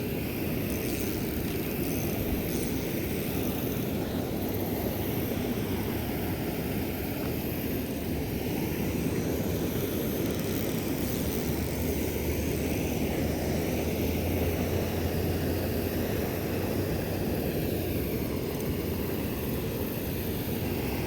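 Steady rushing of water pouring over a small creek spillway, a continuous low, even noise.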